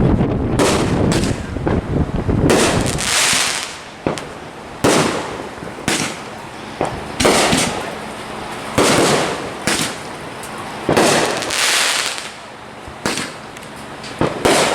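Fireworks going off: a string of sharp bangs every second or two, several of them followed by about a second of crackling.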